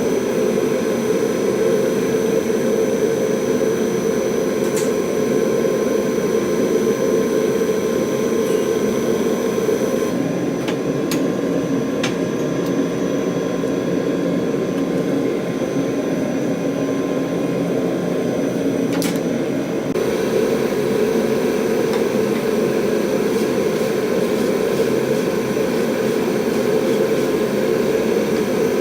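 Steady, even roar of workshop equipment, a little quieter for about ten seconds in the middle, with a few faint ticks.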